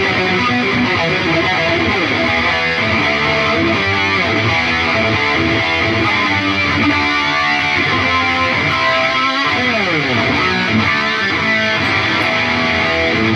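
Electric guitar played through an Atomic AmpliFire modeler pedal and heard over cheap computer speakers: a steady run of lead noodling, with a couple of sliding pitch glides.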